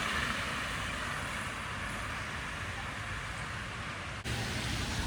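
City street noise: a steady wash of passing road traffic. About four seconds in the sound drops for an instant and comes back with more low rumble.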